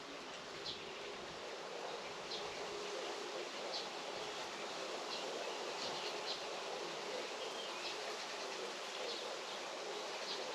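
Outdoor farm ambience with a buzzing insect, such as a bee or fly, over a steady hiss, and short high chirps now and then.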